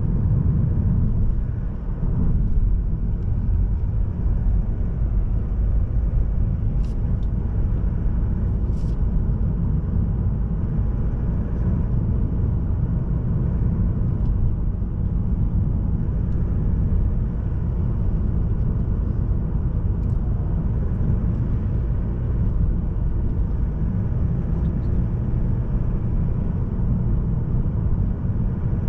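Mazda3 sedan with a 1.8-litre SKYACTIV-D diesel driving along at a steady pace: a continuous low rumble of engine and road noise. There are a couple of faint ticks about seven and nine seconds in.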